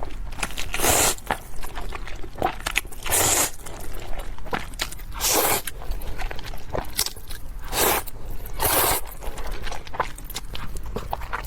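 Close-miked eating of cream fire-chicken instant noodles. A loud, noisy burst comes roughly every two seconds, with quieter chewing and mouth clicks between the bursts.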